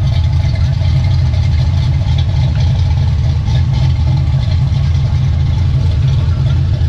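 Car engine running at a steady idle, a loud, even low drone with no revving.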